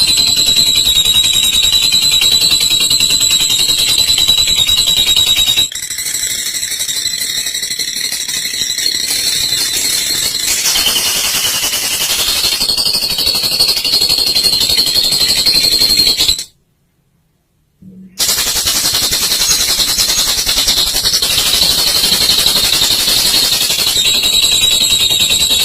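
Olive lovebird's long 'ngekek' song: a continuous, rapid, high-pitched chattering trill. It breaks off into about a second and a half of silence some sixteen seconds in, then resumes.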